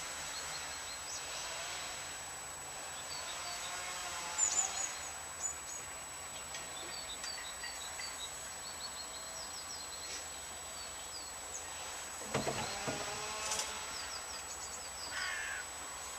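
Outdoor ambience with small birds chirping: short, high, quick chirps scattered throughout, over a steady faint high-pitched whine. About twelve seconds in there is a brief louder knock or clatter.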